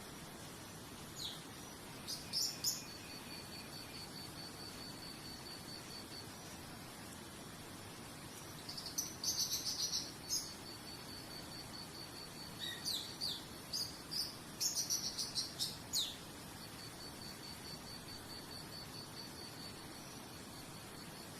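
A cricket trilling in a fast, even, high-pitched pulse that stops and starts, with birds chirping in short bursts three times, over a steady hiss.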